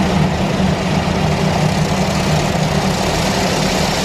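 High-pressure water jets of a D&S IQ touch-free car wash blasting the car, heard from inside the cabin as a steady, loud rushing spray over a low hum.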